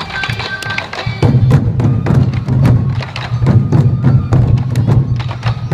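Sansa-odori festival music: a group of taiko drums beaten in a steady, driving rhythm, with a flute's held notes over the drums in the first second. From about a second in the drumming grows louder and fuller.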